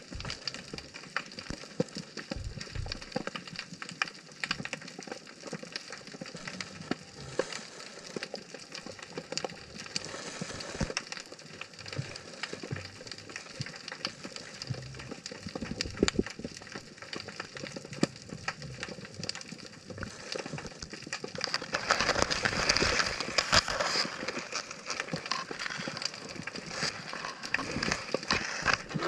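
Steady underwater crackle of countless tiny clicks, the sound of snapping shrimp on a rocky reef. It grows louder and denser about 22 seconds in.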